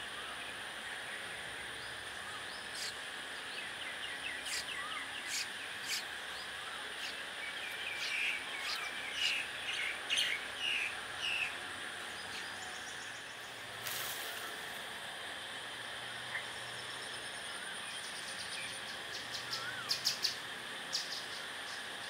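Birds chirping in quick runs of short high notes, heaviest in the first half, over a steady high insect drone and a hiss of background noise. A few sharp ticks come near the end.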